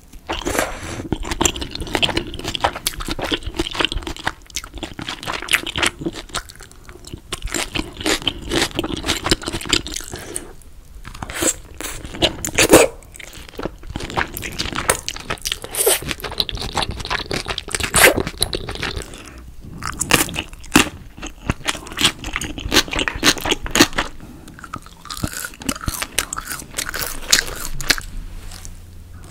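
Close-miked eating: crunchy bites and chewing of crisp batter-fried tangsuyuk (Korean sweet-and-sour fried pork), repeated bite after bite in irregular bursts of crackling.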